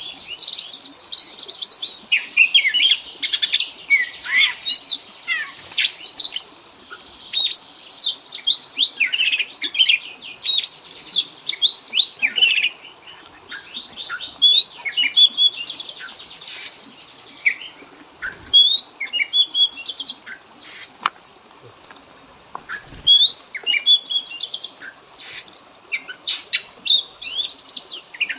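Oriental magpie-robin singing a rapid, varied song of whistles, chirps and quick repeated-note trills, broken by short pauses.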